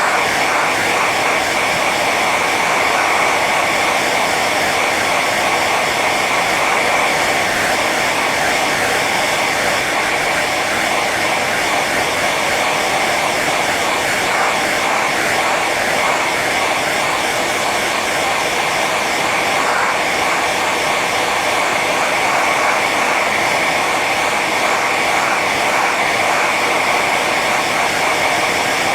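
Hair dryer running steadily on its high setting: an even rush of air and fan whine with a steady tone near the top.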